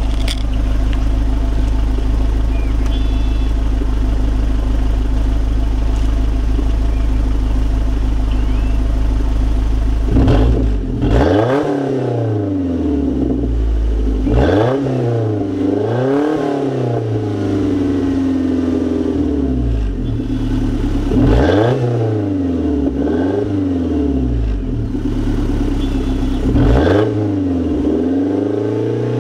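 1991 Toyota MR2's four-cylinder engine breathing through a Flowmaster cat-back exhaust, idling steadily for about ten seconds, then revved up and let fall back about half a dozen times.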